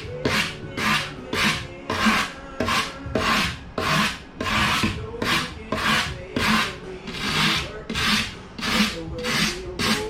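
Rasp-like form rougher scraping back and forth over a taxidermy mannequin, about two rough strokes a second, roughing up the surface so the glue and hide will stick.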